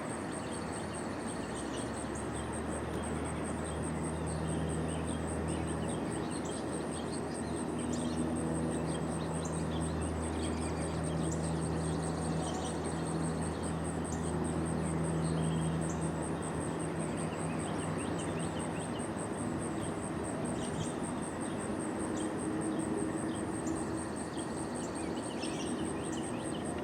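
A cricket-like insect trilling steadily at a high pitch, with scattered short bird chirps. A low steady hum is underneath for the first half or so and fades out about two-thirds of the way in.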